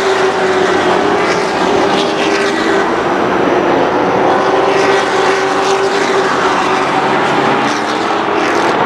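A field of racing pickup trucks running at speed around an oval track: several engines heard at once, steady and loud, their pitches shifting slightly as the trucks pass.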